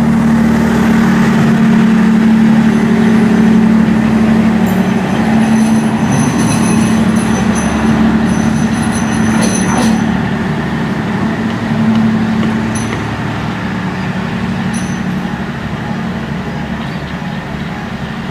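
Passenger train rolling along a station platform with a steady rumble and low hum. Thin, high wheel squeals join about five seconds in and stop near the ten-second mark, and the sound then fades as the train moves away.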